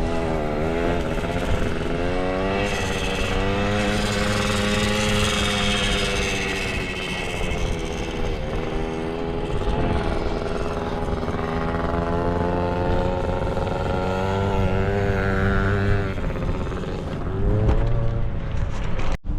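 Pit bike engine running as it is ridden, revving up and down so its pitch rises and falls over and over. The sound cuts out briefly near the end.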